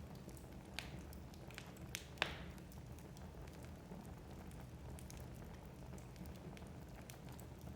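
Wood logs burning in a fireplace: a steady low rumble of the fire with scattered crackles and pops, the loudest a sharp pop a little after two seconds in.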